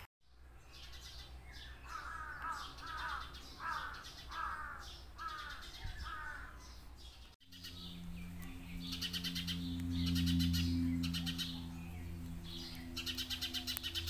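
Birds calling: first a run of six calls about two-thirds of a second apart, then, after a cut, rapid high chattering calls over a steady low hum.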